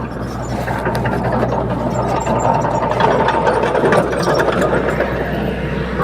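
Komatsu D21P crawler bulldozer's diesel engine running steadily, with a mechanical rattle over the engine hum.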